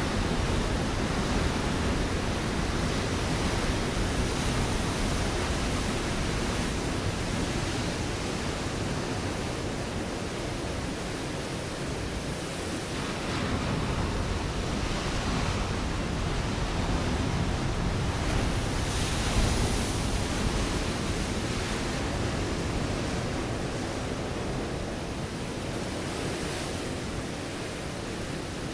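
Ocean surf breaking on a rocky shore: a continuous rushing wash that swells and ebbs as waves come in, with the loudest break about two-thirds of the way through.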